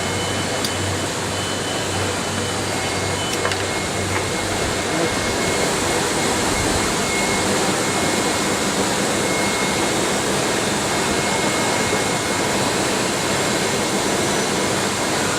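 Steady whirring hum of an electronics factory floor: SMT assembly-line machines and ventilation running, with a thin steady whine and a couple of faint ticks.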